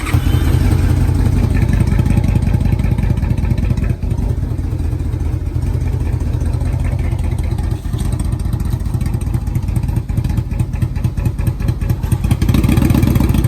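Yamaha Royal Star Tour Deluxe's V4 engine, through aftermarket dual exhaust, running steadily just after catching on a cold start after three months of sitting.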